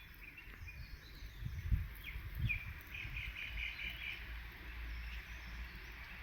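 Small birds chirping, with a quick run of about six repeated chirps around three seconds in, over a low rumble with a couple of soft thumps.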